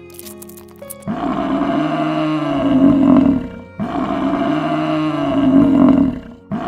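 A large animal's loud, drawn-out call, given twice, each lasting about two and a half seconds, with a third starting right at the end. It is preceded by about a second of steady musical tones.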